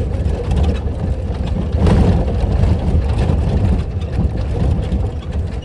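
Motor vehicle running with a steady low rumble, with a louder noisy swell about two seconds in.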